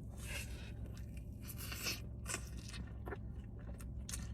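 Close-miked chewing and biting of a soft birria California burrito: a string of short, irregular wet mouth sounds, a few at a time.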